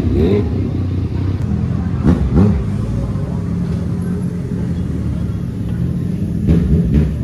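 Sport motorcycle engine idling, with short throttle blips: one at the start, two about two seconds in, and two more near the end.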